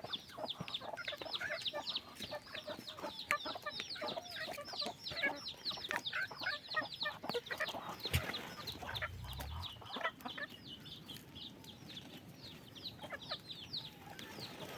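A group of chicks peeping continuously: many short, high, falling peeps several a second, overlapping one another, with occasional lower clucking sounds among them.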